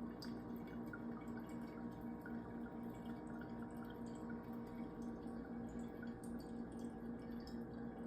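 Blended green juice dripping as it is strained from the pulp: faint scattered drips over a steady low hum that pulses evenly.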